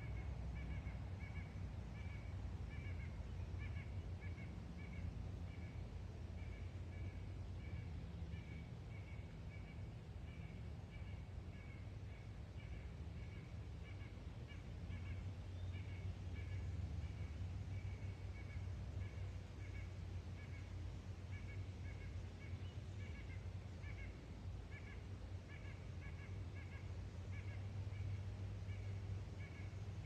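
A bird calling over and over in short high notes, a couple a second, without pause, over a steady low rumble.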